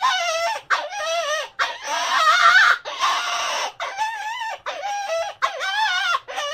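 Penguin calls: about eight high, wavering calls in a row, each around half a second long with short gaps between.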